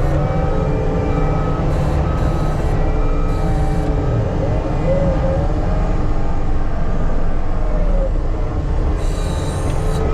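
Heavy earthmoving machine running under load, its diesel engine a steady low rumble, with a wavering squeal over it and a backup alarm beeping about once every three-quarters of a second.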